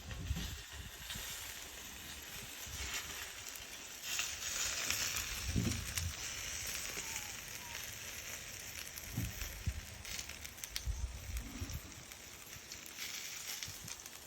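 Wood fire crackling and hissing, loudest from about four to seven seconds in, with a few low thumps.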